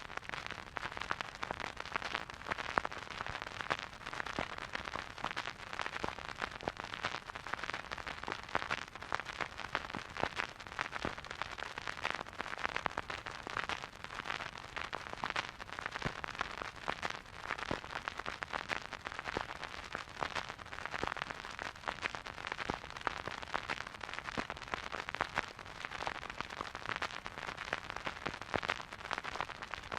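Vinyl record crackle: surface noise from a record player playing a silent groove, a steady hiss with dense, irregular pops and clicks and no music.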